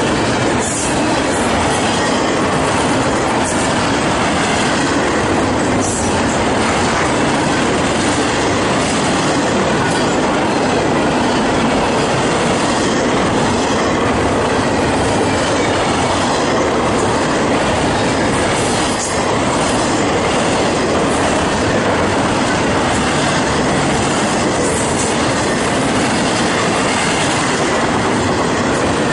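Double-stack intermodal freight train of container well cars rolling past close by: steel wheels running on the rails make a steady, loud noise, with occasional clacks over rail joints.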